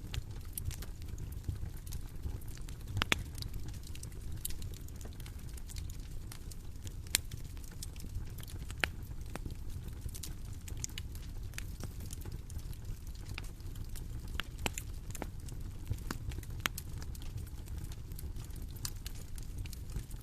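Bonfire burning: a steady low rumble of flames with scattered, irregular sharp pops and crackles from the wood.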